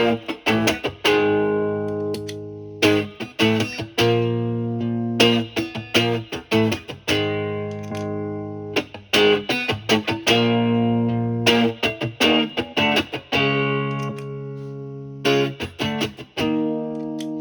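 Electric guitar, a Stratocaster with three single-coil pickups, through a Marshall Valvestate's clean channel with a low-gain drive pedal on. It plays short phrases of quick picked notes, each ending in a chord left to ring for a second or two.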